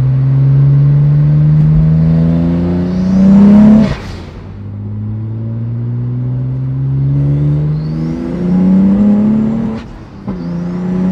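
Turbocharged BMW E82 1 Series engine heard from inside the cabin, accelerating hard through the gears: the revs climb steadily, then drop at upshifts about four seconds in and again around eight and ten seconds in. A thin high whistle rises near the end of the pulls.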